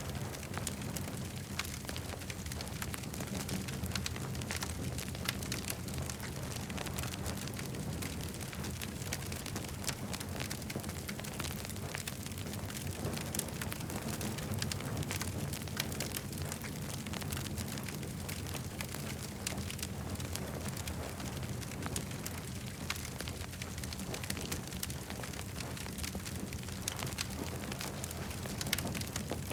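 Campfire burning, with many small crackles and pops over a steady low rumble.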